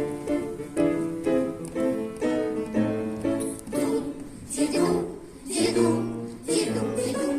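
Music for a choir's wordless song: an accompaniment of short, detached notes, with voices coming in about halfway through.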